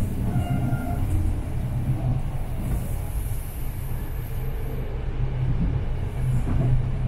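Intercity Notte passenger coach running along the line, heard from inside: a steady low rumble of the wheels on the rails.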